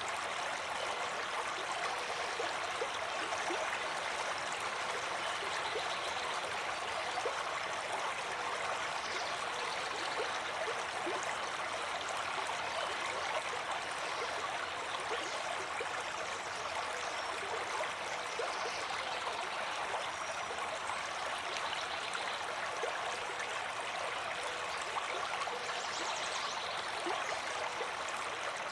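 Flowing water: a steady, even rush of running water with fine trickling splashes, unchanging throughout.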